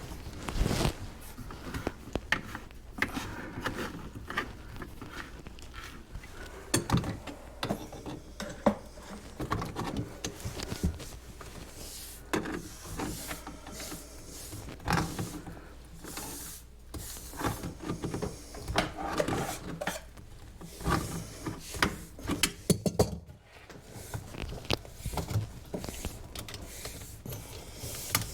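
Irregular clicks, knocks and rubbing from plastic drain pipe and fittings being handled and fitted together under a kitchen sink.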